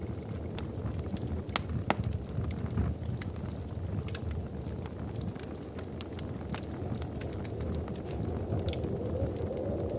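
Wood fire burning in a fireplace: a steady low rumble of flames with irregular sharp crackles and pops, the rumble swelling slightly near the end.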